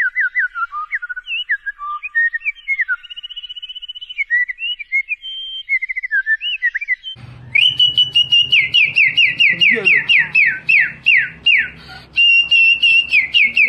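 Whistling in high, clear notes. First comes a varied run of short chirps and slides. From about seven seconds in it turns into a fast repeated series of falling whistles, about three a second, over a low background hum.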